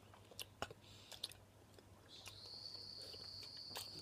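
Faint chewing of sour gummy candy: scattered small wet mouth clicks and smacks. A thin, steady high-pitched tone comes in about two seconds in and holds.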